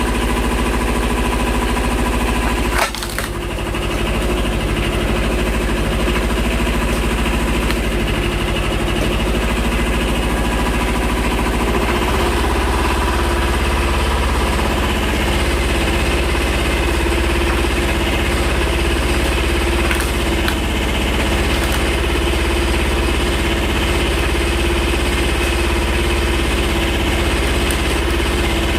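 Tractor engine running steadily while it powers the hydraulic cylinder of a homemade eight-way log splitter pressing on a log, with one sharp knock about three seconds in and a steady tone that grows stronger partway through. The log does not split: the owner blames a weak cylinder and the wood jamming in the blades against the ground, overloading the hydraulics.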